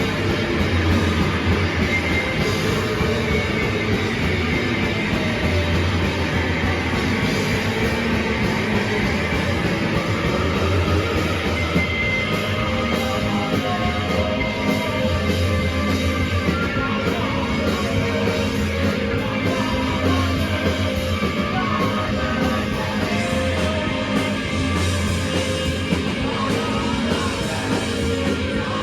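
Live rock band playing loud, dense punk-style rock with guitars and drums kit, continuous throughout.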